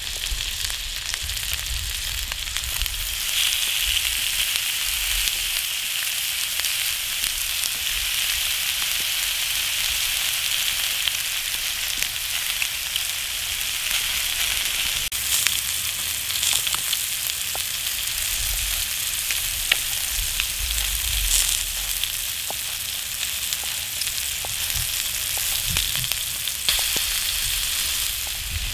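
Egg-in-bread with bacon and cherry tomatoes frying in a pan, with a steady sizzle and a few small pops of fat.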